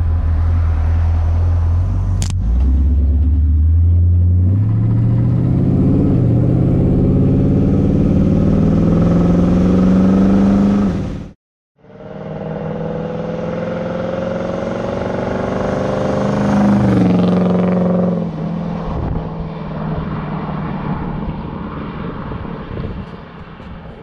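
Hot-rodded 1930 Ford Model A coupe's engine accelerating, its pitch climbing steadily before cutting off abruptly about eleven seconds in. It then revs up again, eases off a few seconds later and settles into a lower steady note that fades near the end.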